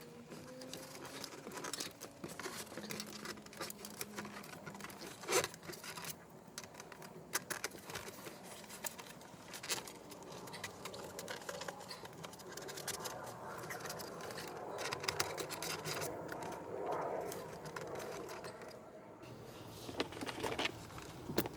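Hands working a dashcam and its wiring inside a car's cabin: irregular scraping and rustling with scattered light clicks of plastic.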